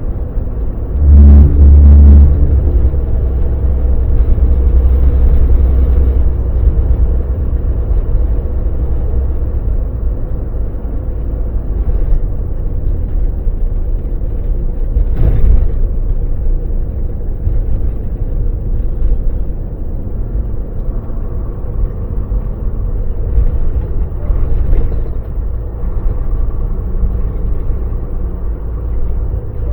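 Volvo VNL semi truck's diesel engine running with road rumble, heard from inside the cab. The low rumble swells briefly about a second in, and there is a single knock about halfway through.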